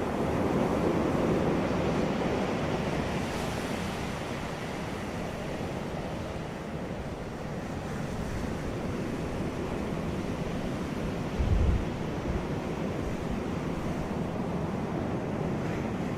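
Ocean surf washing onto a beach: a continuous rush of breaking waves that swells in the first couple of seconds and then eases. About eleven and a half seconds in there is a brief low thump, like wind buffeting the microphone.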